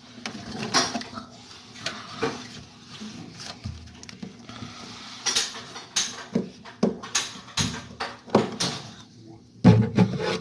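Irregular sharp clicks, taps and clatter of small hard objects being handled, with a few louder knocks near the end.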